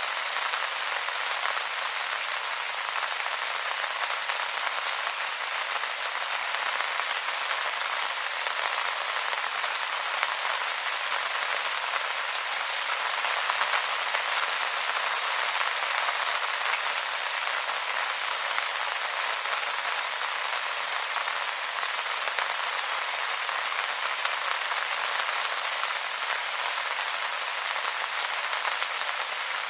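Steady rain falling on wet leaves, a dense even patter of drops.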